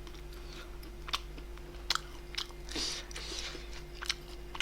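A person chewing food close to the microphone, with a few sharp wet mouth clicks and a short smacking burst near the middle, over a faint steady electrical hum.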